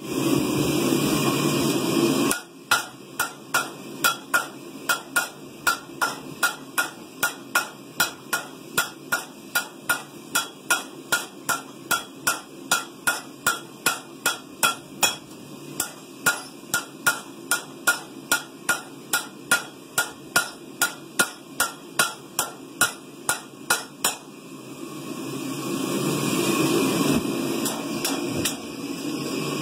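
Two hammers taking turns striking on an anvil, about two blows a second, the blows alternating louder and softer for some twenty seconds. A steady noise comes before and after the hammering.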